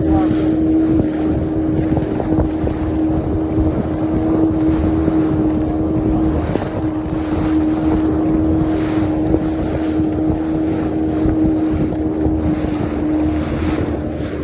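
A boat's motor running steadily, with a constant whine, while wind buffets the microphone.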